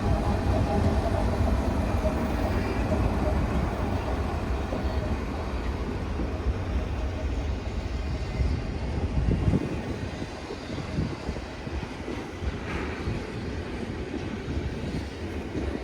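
A freight train's cars rolling past with a steady low rumble and rail noise. A faint wheel squeal fades out in the first few seconds.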